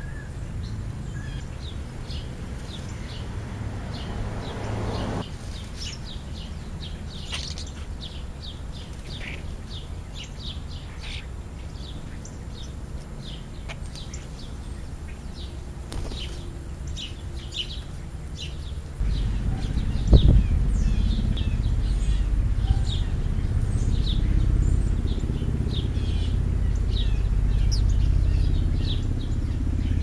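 Small birds chirping in short, repeated calls over a steady low rumble of road traffic. The rumble grows louder about two-thirds of the way in, with a single sharp knock just after.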